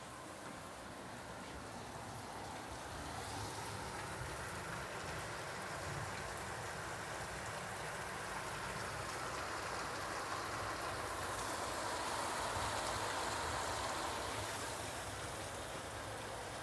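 Rain falling in a steady hiss that slowly grows louder and eases a little near the end.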